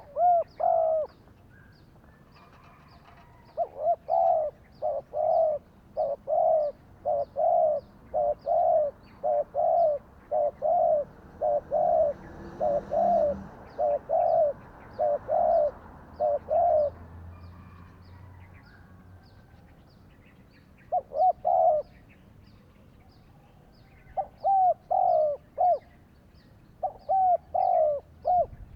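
Spotted dove cooing: a long run of deep coo notes about one a second, then a pause and shorter phrases near the end.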